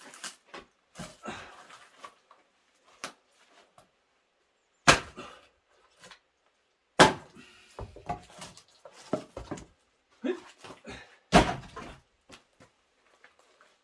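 Axe blows splitting firewood logs: three sharp, loud strikes, the second about two seconds after the first and the third about four seconds later, with lighter knocks of wood in between.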